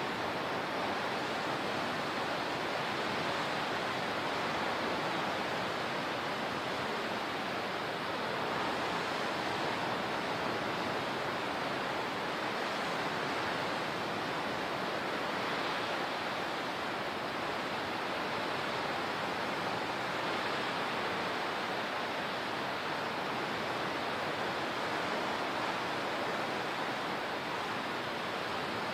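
Steady rushing of water, an even hiss with no breaks or swells.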